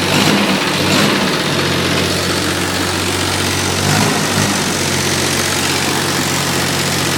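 1986 International tractor's diesel engine idling steadily, with its note wavering briefly about a second in and again around four seconds in.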